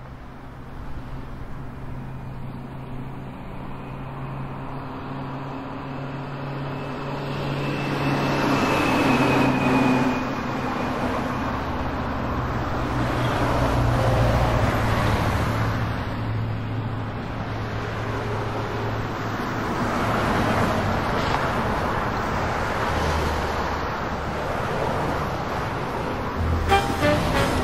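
Car engine running and street traffic noise, a steady low hum with swells that rise and fade several times as vehicles pass.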